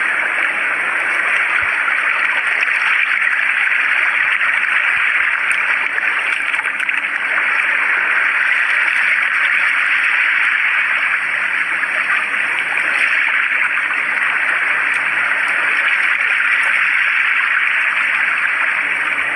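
Water rushing over rocks: a steady, even rush with no separate waves breaking.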